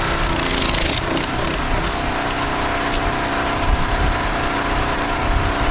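Pressure washer's engine running steadily under a hiss of spray; its note shifts and wavers about a second in, then settles again.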